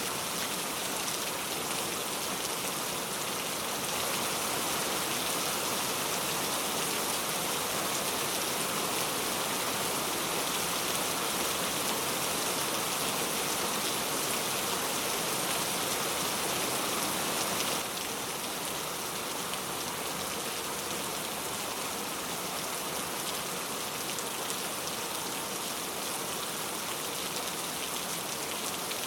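Steady rain falling, an even hiss of drops that steps slightly louder about four seconds in and softer a little after halfway.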